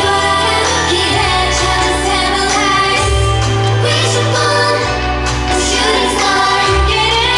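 A girl group singing a K-pop song with female voices over a pop backing track, its deep bass notes held and changing every second or two.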